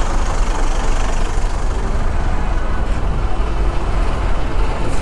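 Motorcycle in a highway traffic jam: the bike's engine running amid a steady, dense rumble of trucks and buses close around.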